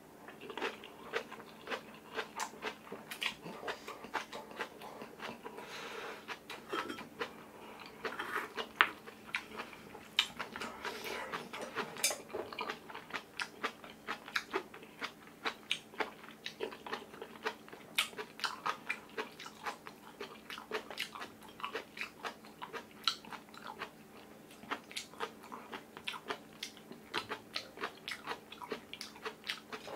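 Close-miked chewing: a person eating rice, kimchi and tofu, a rapid, irregular run of wet mouth clicks and crunches.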